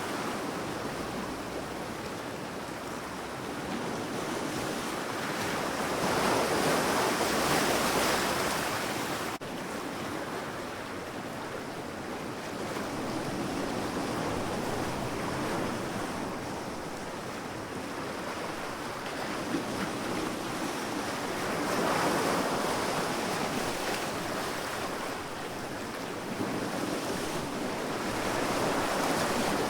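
Sea waves washing onto a sandy beach: a steady surf hiss that swells as waves break, about 7 seconds in, about 22 seconds in and near the end, and dies back between them, with one sudden small dip in level about nine seconds in.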